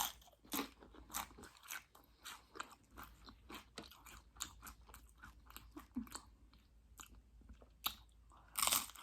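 Close-up crunching and chewing of Doritos loaded nachos: crisp tortilla-chip crackles at an irregular pace, with a louder burst of crunching near the end.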